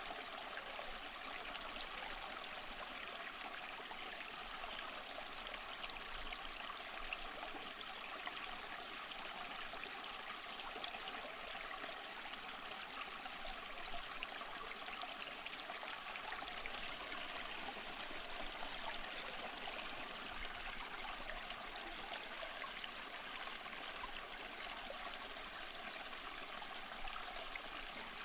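Running water rushing steadily and evenly, bright and hissy with little low rumble.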